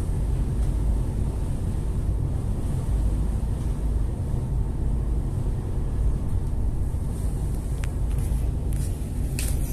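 Boat engine running steadily as a continuous low rumble, with a few short sharp knocks near the end.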